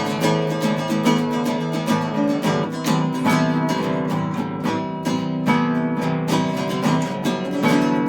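Acoustic guitar music: an instrumental piece with quick plucked and strummed notes ringing over one another.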